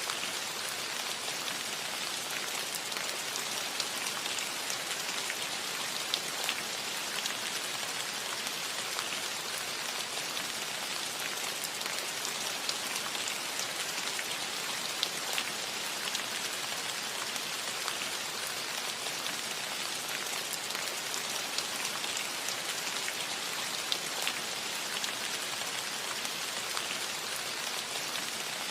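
Steady rain falling on a roof: a constant hiss with many single drops ticking sharply through it.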